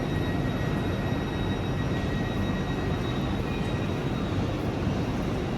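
Train standing at a station platform with its equipment running: a steady low rumble with a thin, steady high whine.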